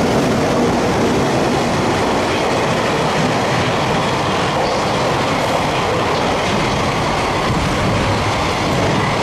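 Freight train hauled by a JR Freight EH200 electric locomotive passing through a station: steady, loud rolling noise of the wheels on the rails as the tank-container wagons go by.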